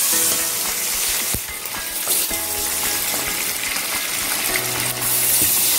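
Potato slices shallow-frying in hot oil in a nonstick pan: a steady sizzle.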